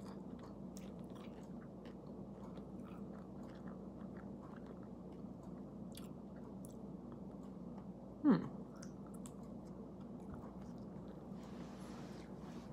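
A person chewing a mouthful of plant-based burger patty with vegan cheese, with faint soft mouth clicks. About eight seconds in comes a brief hum from the eater's voice, its pitch falling.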